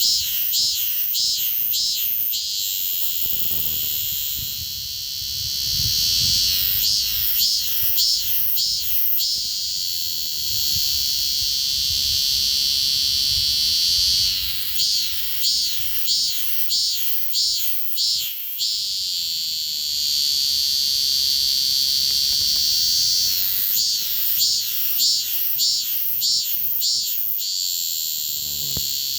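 Cicada singing at very close range: a shrill, steady buzz broken three times by spells of rapid, regular pulsing.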